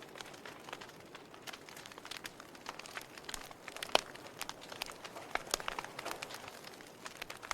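Wood fire crackling, with irregular sharp pops and snaps over a soft hiss; the loudest pop comes about four seconds in.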